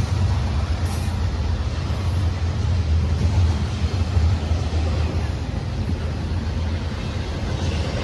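Diesel locomotives of a three-engine train running past, a steady low engine rumble mixed with rail noise.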